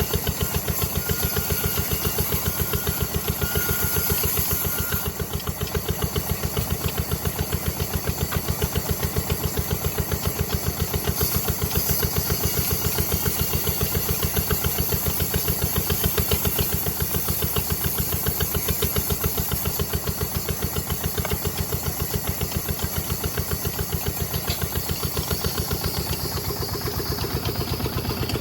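Diesel engine running steadily with an even, regular firing beat.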